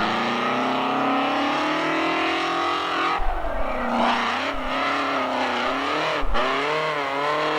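Monster truck engine revving under load: its pitch climbs steadily for about three seconds, drops, then rises and falls again a few times.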